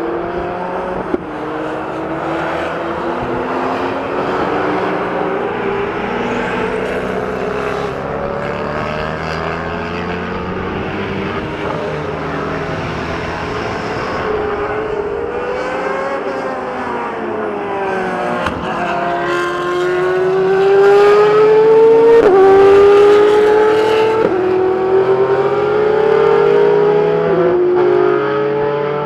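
A supercar engine revving and accelerating hard through several gears, its pitch climbing and dropping back at each upshift, loudest past the middle.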